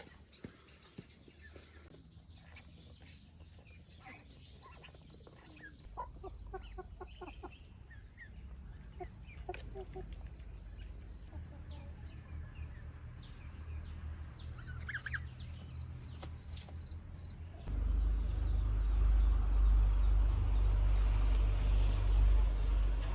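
Chickens clucking faintly, with scattered light clicks. About two-thirds of the way through, a loud, steady low rumble starts suddenly and carries on.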